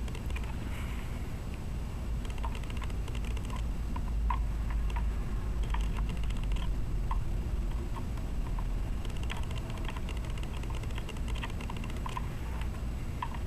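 Irregular small clicks and taps of hard plastic parts being handled, as a Dyson vacuum's brush-bar motor is worked out of its plastic housing, over a steady low rumble.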